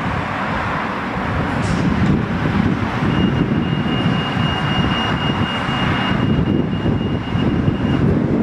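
Rumble of a South Western Railway electric multiple unit approaching round a curve, with wind buffeting the microphone. A single high, steady whine starts about three seconds in and stops shortly before the end.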